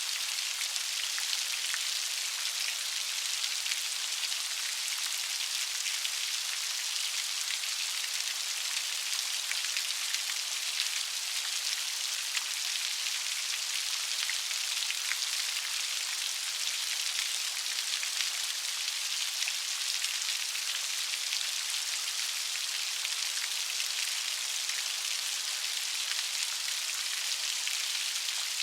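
Steady light rain falling, a continuous high hiss full of fine drop ticks with no thunder or other events.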